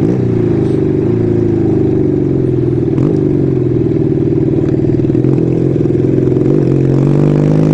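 Kawasaki 440 cafe racer's parallel-twin engine running at a steady road speed as the motorcycle is ridden, its pitch rising a little near the end.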